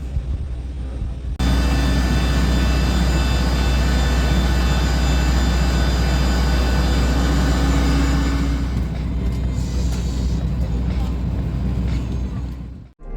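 Jet engine noise heard inside an airliner cabin: a heavy steady rumble with a high steady whine over it. A little over a second in, it jumps abruptly louder, and it fades away near the end.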